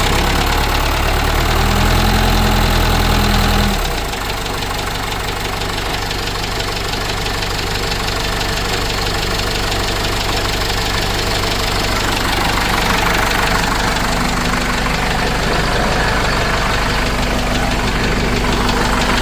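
Cummins 4BT four-cylinder turbo diesel in a Case 586E forklift running. It runs at higher revs for the first few seconds, then drops back about four seconds in and settles into a steady idle.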